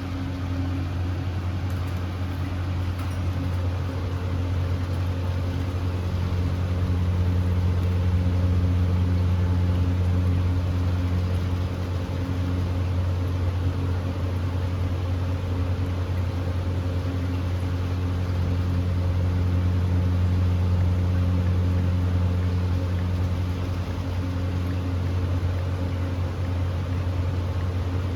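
Steady low machine hum, like a motor or fan running, with an even hiss over it and no distinct bird whistles standing out.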